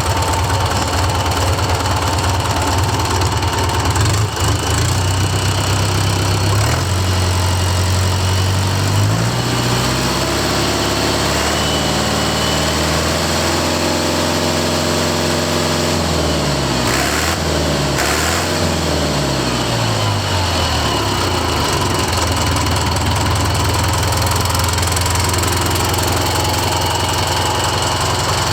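Deutz F4L912 air-cooled four-cylinder diesel engine running at idle, then revved up to high speed and held there for a few seconds, then let fall back to a steady idle.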